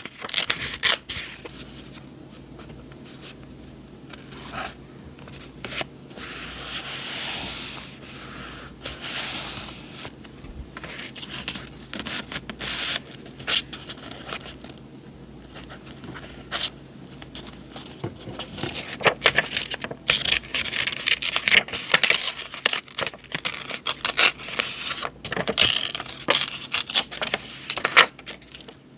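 Paper journaling supplies and their packaging being handled: rustling and scraping sheets, with many sharp taps and clicks that grow busier in the second half.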